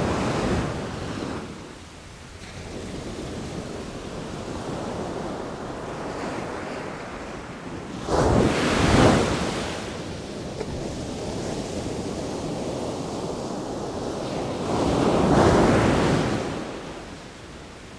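Sea waves breaking on the shore: a steady wash of surf with two louder crashes, a sharp one about eight seconds in and a broader one near the end, each sweeping up and then draining away. Wind noise on the microphone runs under it.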